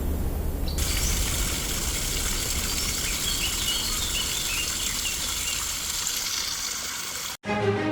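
Outdoor park ambience: a steady background hiss and low rumble, with small birds chirping now and then. It cuts off suddenly near the end, where a music track begins.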